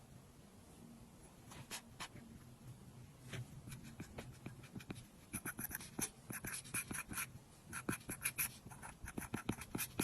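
Apple Pencil tip tapping and stroking on an iPad's glass screen: a few scattered ticks at first, then quick runs of taps and strokes from about halfway in.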